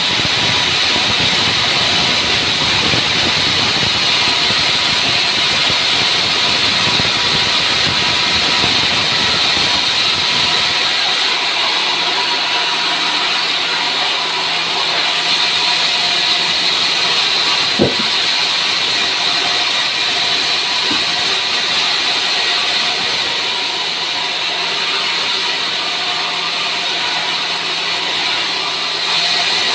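Sawmill saw running and cutting through dry pine, a steady hissing whine. A low rumble underneath drops away about eleven seconds in, and there is a single sharp knock a little past halfway.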